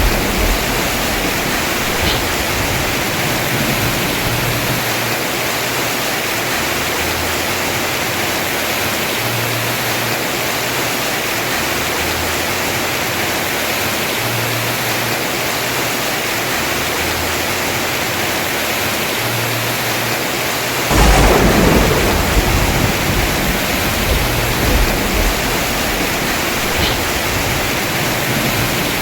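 Heavy rain pouring steadily on a house roof, with a clap of thunder about two thirds of the way through that rumbles on for a few seconds.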